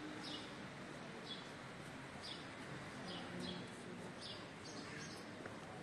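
A small bird chirping over and over: short chirps that fall in pitch, a little more than one a second, over a faint background hum.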